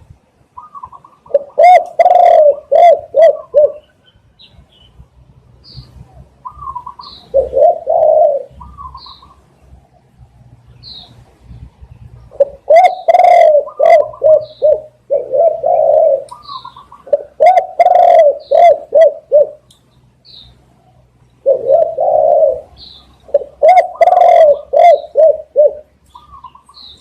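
Spotted dove cooing loudly in repeated phrases, each a quick run of several low coos, a new phrase every few seconds. Short faint high chirps from another bird fall between the phrases.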